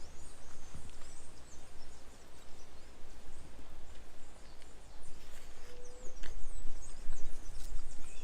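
Outdoor ambience: small birds chirping high and briefly over a steady background hiss, with a low rumble that grows louder in the last couple of seconds.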